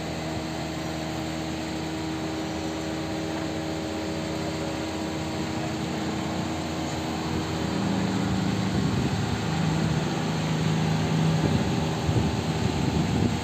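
Steady motor hum with a wash of noise under it, growing a little louder about two-thirds of the way through.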